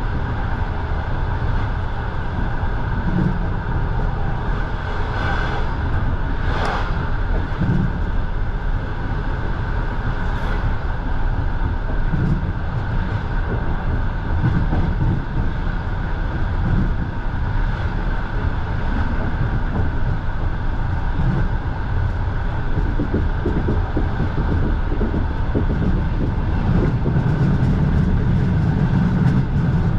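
Passenger train carriage running on the rails, heard from inside: a steady, heavy rumble of wheels and running gear with no break.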